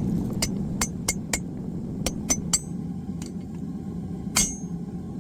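Hammer blows on hot mild steel laid over an anvil cutoff tool made from an old axe head, cutting the bar: about ten irregular strikes with a bright ring, the loudest one near the end, over a steady low rumble.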